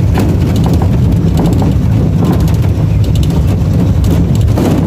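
Engine running steadily under heavy wind buffeting the microphone, a constant deep rumble with rough rushing noise over it.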